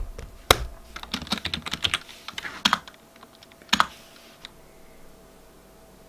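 Typing and clicking on a computer keyboard, an uneven run of key taps that stops about four seconds in.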